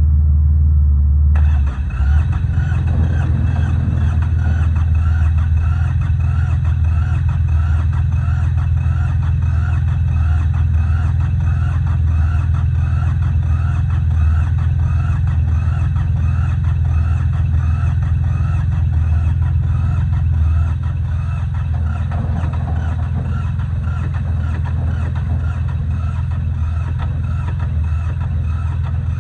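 Yanmar YM146 compact tractor's diesel engine running steadily, a continuous low rumble with an even pulsing beat; it drops slightly in level about twenty seconds in.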